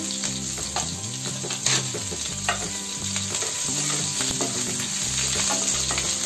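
Garlic, ginger and green chillies sizzling in hot mustard oil in a non-stick frying pan, stirred with a wooden spatula, with a few light clicks of the spatula against the pan.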